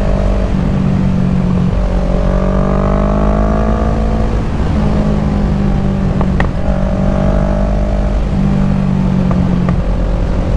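Kawasaki Ninja 650 parallel-twin engine running as the motorcycle is ridden, its pitch rising slowly a couple of seconds in and then holding steady.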